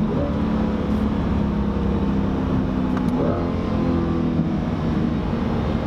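A 2020 C8 Corvette's 6.2-litre V8 running through a new 3-inch stainless exhaust with X-pipe, heard from inside the car while it is driven. The engine note climbs in pitch at the start and again about three seconds in, holding steady in between.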